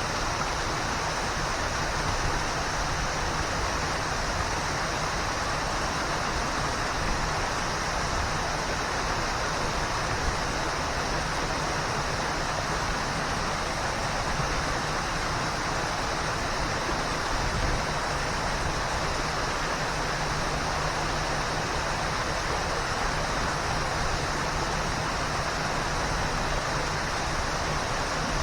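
Waterfall: falling water making a steady, even rush of noise with no breaks or changes.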